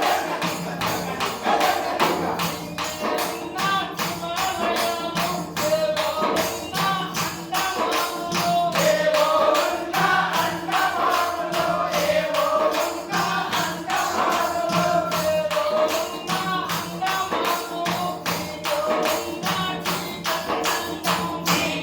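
Telugu folk song: a voice sings a wavering melody over a steady beat of jingling hand percussion, about four strikes a second.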